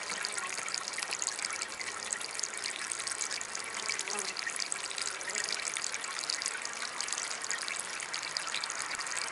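Small DIY water fountain trickling and splashing steadily.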